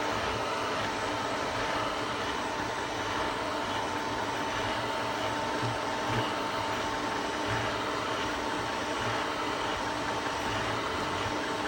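Robot vacuum cleaner running: a steady machine whir with a constant hum tone over it.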